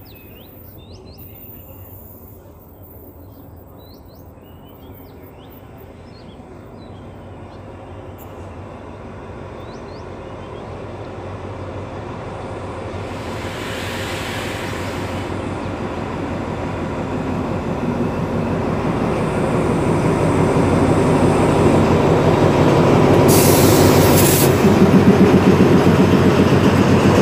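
Alsthom 4220 diesel-electric locomotive hauling a passenger train into a station: engine drone and rumbling wheels grow steadily louder as it approaches and draws alongside. There are two brief high hisses, one around halfway and one near the end.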